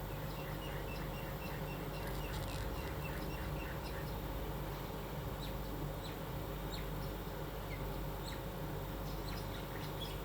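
A bird chirping: a quick run of short, high chirps, about four a second, for the first few seconds, then a few scattered chirps. A steady low electrical hum runs underneath.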